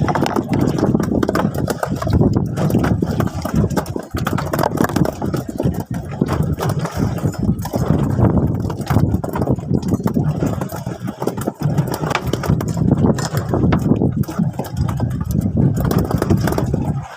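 Fishing boat's engine running steadily under way, with a rough, uneven rush of noise over it.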